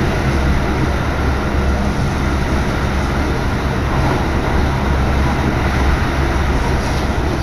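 Running noise of a moving Keikyu Main Line commuter train heard from inside the carriage: a steady low rumble.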